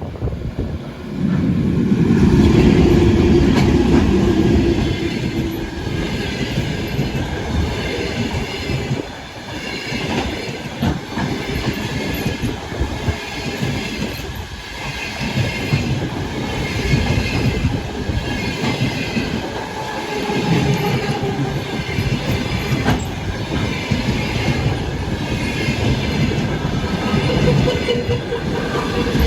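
Passenger train passing close by: a heavy rumble that swells about a second in, with wheels clattering rhythmically over the rail joints and a thin wheel squeal above.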